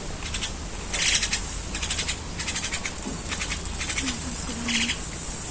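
Birds calling in short, rapid chattering bursts, a handful of times over a few seconds, over a faint low steady hum.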